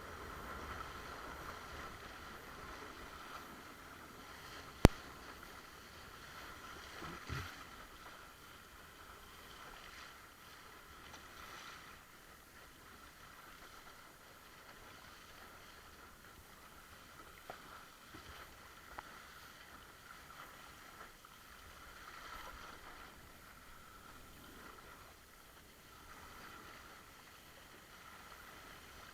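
Water rushing and splashing against a windsurf board under sail. There is a single sharp click about five seconds in and a duller knock a couple of seconds later.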